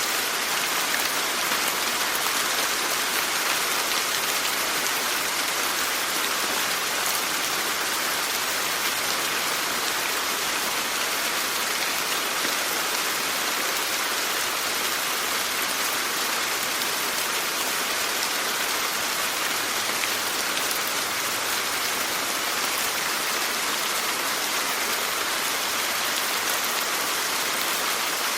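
Steady rainfall, an even hiss of drops that does not change in strength.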